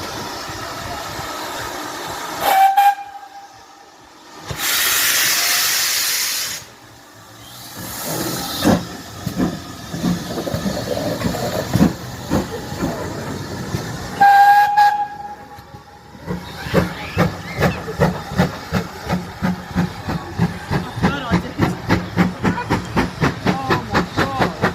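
GWR large Prairie steam locomotive 4144 gives a short whistle blast, then a loud rush of released steam lasting about two seconds and a smaller one after it. A second short whistle comes about halfway through, and then the regular chuff of its exhaust beats sets in, the beats getting quicker near the end as it gets under way.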